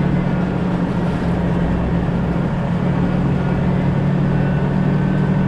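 2000 Jeep Cherokee XJ driving at a steady pace: an even engine drone mixed with road noise, with no change in speed.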